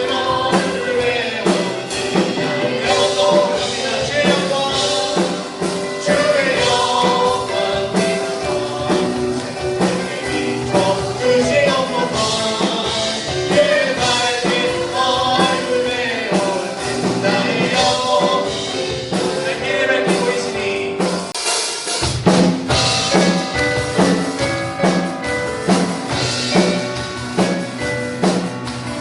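Worship band music with a drum kit under melodic lead lines. About 21 seconds in the bass drops out briefly, then the full band comes back in on a steady drum beat.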